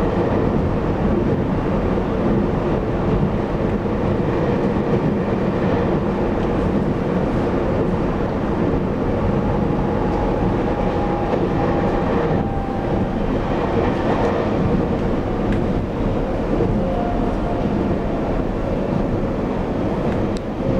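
Taiwan Railways EMU800 electric multiple unit running at speed, heard from inside the passenger car: a steady rumble of wheels on rails and running gear. A faint whine comes and goes around the middle.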